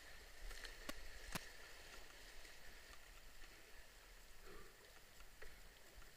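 Faint, even rush of moving river water around a canoe, with two sharp knocks about a second in, half a second apart.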